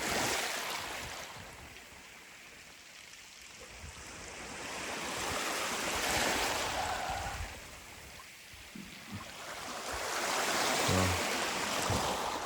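Sea waves washing over a stone beach and drawing back, coming in three swells of hiss about five seconds apart.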